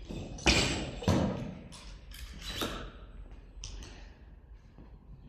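A series of sharp thuds and knocks during a workout, two loud ones close together about half a second and a second in, then a few lighter knocks.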